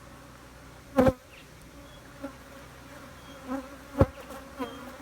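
Honeybees buzzing in a steady hum around an opened hive, with single bees droning close past now and then. Two sharp knocks, about a second in and about four seconds in, are the loudest sounds.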